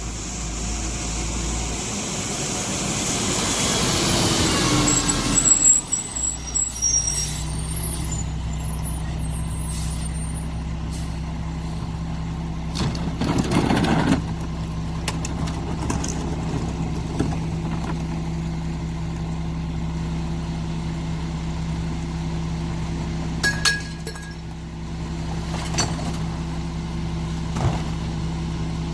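Mack MR garbage truck engine revving up, its pitch rising for about five seconds, then dropping back to a steady idle. A short hiss of air comes about halfway through.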